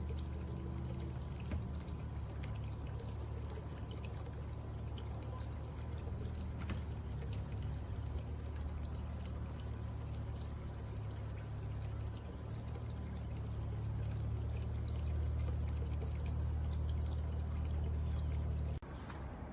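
Water pouring and splashing steadily over a low, constant hum, a little louder in the last few seconds and cutting off abruptly just before the end.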